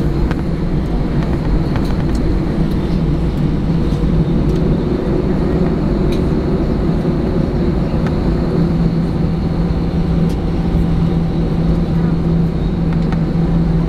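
Steady jet engine and airframe noise heard inside the cabin of an Airbus A318 airliner: a constant low hum with a few faint clicks.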